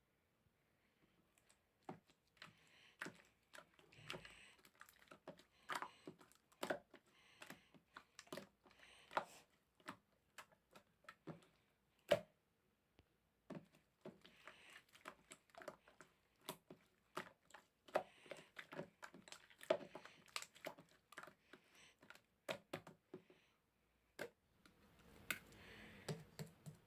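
Slime being squeezed and pressed by hand, making quick irregular clicks and pops from trapped air over a soft squishing. There is a short pause about halfway through.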